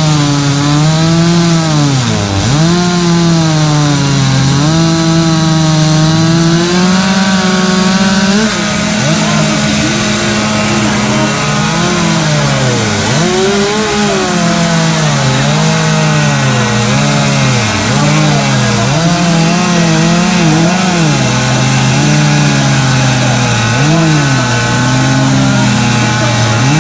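Two-stroke chainsaws carving wood, their engines revving up and down in pitch as they cut. From about eight seconds in, a second saw is held at a steady high speed underneath.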